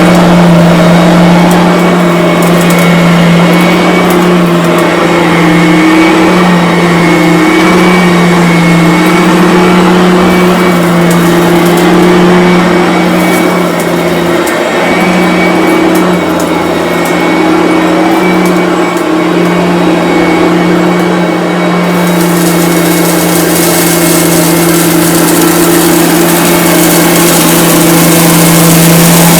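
Bissell BigGreen Commercial upright vacuum cleaner running steadily on carpet: a constant motor hum with a fainter whine above it. The upper hiss turns brighter about three quarters of the way through.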